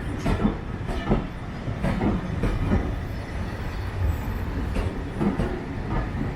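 Train running on the rails: a steady low rumble of the carriages with irregular clanks and wheel clicks over the track.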